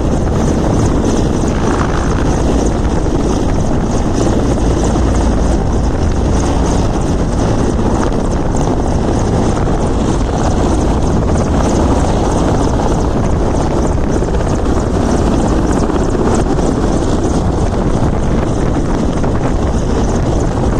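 Helicopter running close by: a loud, steady rotor and engine noise with no pauses or changes.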